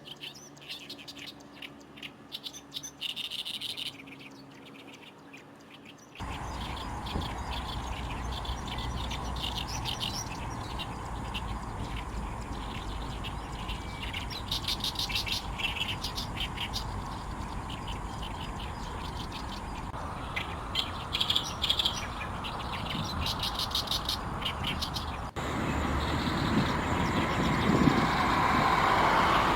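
Oriental reed warbler singing its loud, harsh, chattering song in repeated phrases. About six seconds in, a steady roar of jet noise from the nearby runway comes in suddenly and covers the song; it grows louder near the end.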